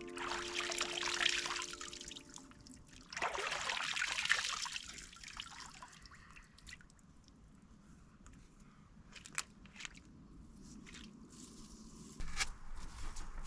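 Water trickling and splashing in irregular spells, with scattered small clicks; background music fades out in the first couple of seconds.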